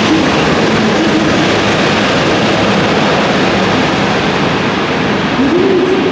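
JR Hokkaido H-100 (DECMO) diesel-electric railcar running, a loud, steady engine and machinery noise.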